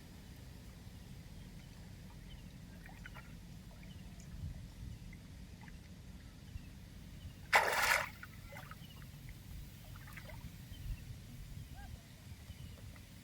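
Water sloshing and trickling, with one brief, loud splash about halfway through.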